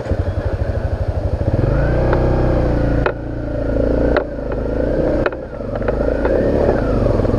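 Small single-cylinder dual-sport motorcycle engine under way: slow even firing pulses at first, then the revs rising and falling several times, with short breaks in the note about three, four and five seconds in.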